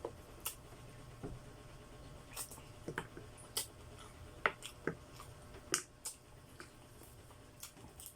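Mouth sounds of eating chicken feet: irregular wet smacks and clicks of chewing and sucking.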